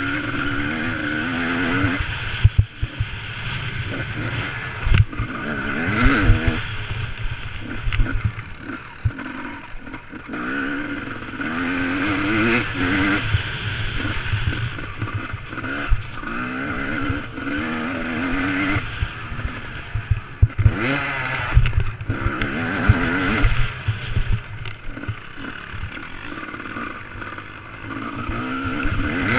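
Motocross bike engine revving up and falling back again and again as it is ridden hard, with several sharp thumps along the way.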